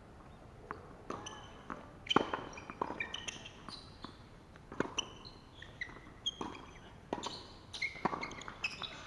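Tennis rally: balls struck by rackets and bouncing, a sharp impact every second or so, with many short, high squeaks of shoes on the court.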